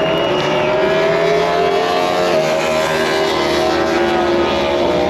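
MotoGP race motorcycles running at high revs on the circuit, several engine notes overlapping and shifting in pitch as the bikes pass.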